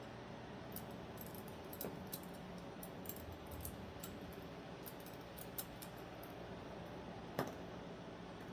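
Faint, scattered small metallic clicks and taps of folding-knife parts being handled during a crossbar-lock knife teardown, with one sharper click near the end.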